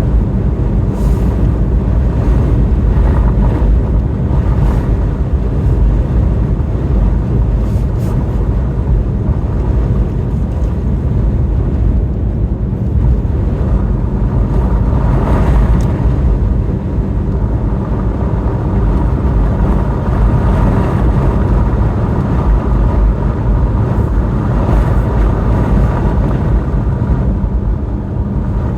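A car driving on a snowy road: a steady, loud low rumble of engine, tyre and wind noise.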